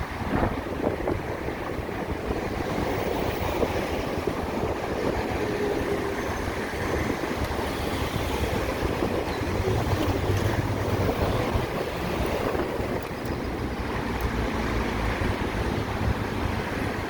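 Wind rushing over the microphone and road and traffic noise while riding a motorcycle through city traffic. A nearby engine hums low for a couple of seconds around the middle.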